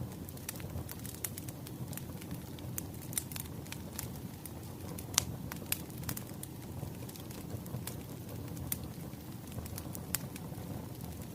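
Wood fire crackling: irregular sharp pops and snaps over a low steady rumble of burning logs, with one louder pop about five seconds in.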